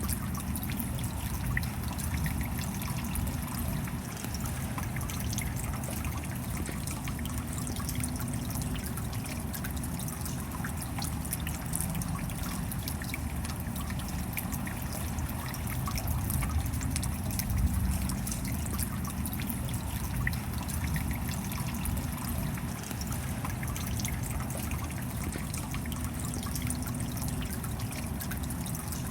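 Steady rain: an even hiss of falling water dotted with many small, sharp drop ticks, over a low rumble.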